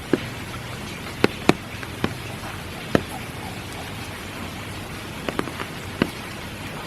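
Steady spring rain falling, with the separate sharp taps of heavy drops landing close by at irregular moments, about eight in all.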